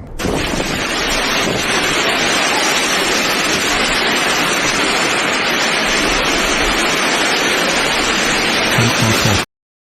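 Hailstorm: hailstones and rain pounding down in a dense, steady, loud hiss that cuts off suddenly near the end.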